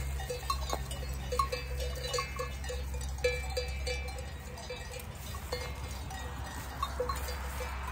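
Bells hung on the necks of feeding sheep, clinking irregularly: one or two short ringing notes a second.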